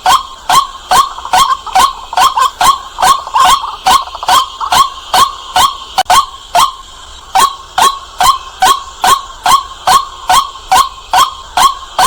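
White-breasted waterhen calling, a loud, fast train of short 'kwak' notes, about two to three a second, each dropping in pitch. The run has a brief break about halfway through.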